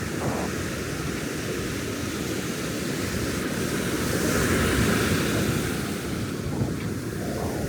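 Ocean surf washing onto a sandy beach, a steady rushing wash that swells louder about halfway through as a wave breaks.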